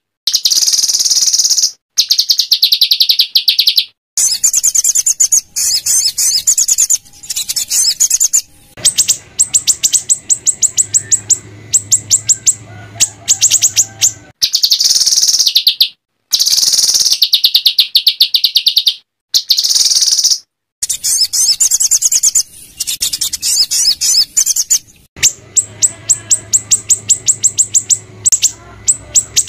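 Small songbird's harsh, rapid-fire song ('tembakan kasar'): high-pitched phrases of fast repeated notes, like a rattling trill, alternating with smoother warbled phrases. The phrases are cut apart by abrupt silences, as in an edited, looped masteran track for training murai batu.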